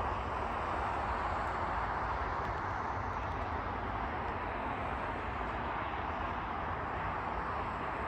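Steady vehicle noise: an even rumble with a hiss over it, holding level with no distinct clanks or horn.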